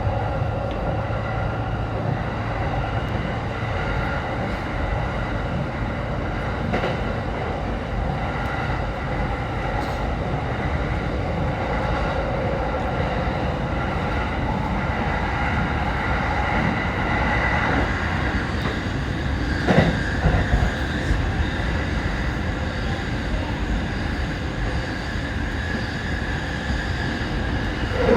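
E233-series Saikyo Line electric train running, heard from inside the front car: steady running noise of wheels on rails, with one sharp clank about twenty seconds in.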